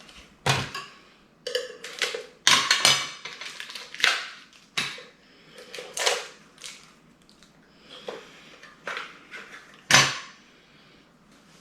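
Hard plastic parts of a cordless stick vacuum clacking, knocking and scraping as they are handled and fitted together. The clacks come at irregular intervals, with the loudest knock near the end.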